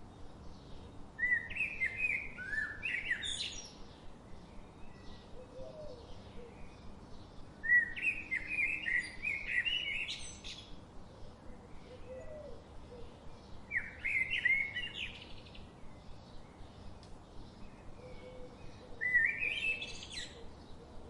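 A songbird sings a short phrase of quick chirping notes ending in rising upward sweeps, four times about every six seconds. Fainter chirps from other birds and a soft outdoor hiss continue between the phrases.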